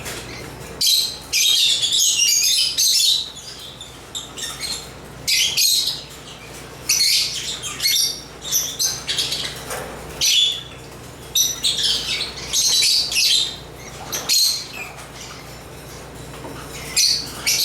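African lovebirds (Agapornis) chirping in bursts of rapid, high-pitched chatter, each lasting from a fraction of a second to about two seconds, with short pauses between them.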